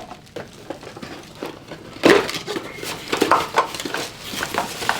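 Hands rummaging through the bike's shipping box and packaging: a few faint clicks, then from about two seconds in a run of knocks, clunks and rustling as parts are handled and pulled out.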